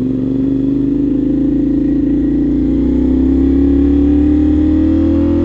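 CFMOTO 450SR's 450 cc parallel-twin engine pulling away under acceleration, its note rising slowly and steadily in pitch.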